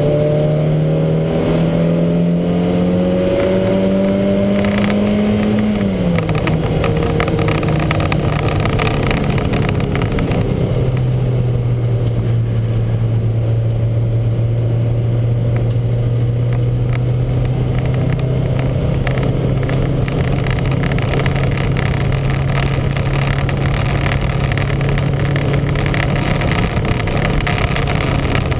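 Lancia Montecarlo race car's four-cylinder engine revving up for about six seconds with a step up near two seconds, then the revs fall and from about eleven seconds in it holds a steady lower speed. The car was suffering a heavy misfire.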